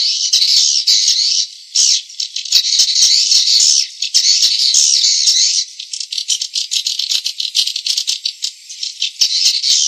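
Swiftlet lure call: the dense, high-pitched twittering chatter of many swiftlets, with fast clicks running through it and a few brief lulls. It is a recording played to draw swiftlets into a nesting house and get them to roost there.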